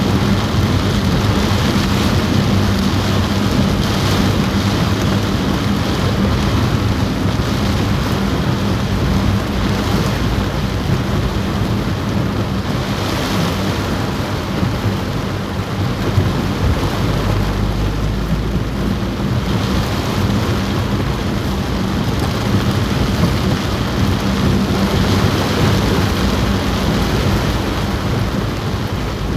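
Heavy rain drumming steadily on a car roof, heard from inside the car, over a steady low hum. A deeper rumble swells for a few seconds past the middle.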